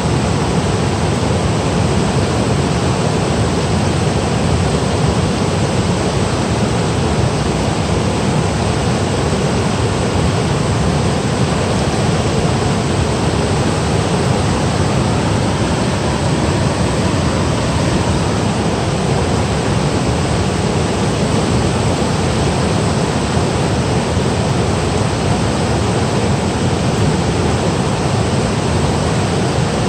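Mountain stream rushing over rocks and small falls, a loud, steady roar of water with no change.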